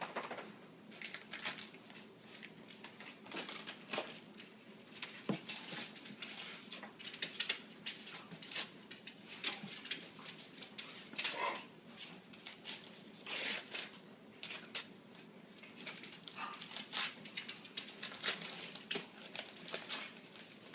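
Gift wrapping paper being torn and crinkled as a present is unwrapped, in many short irregular rips and rustles.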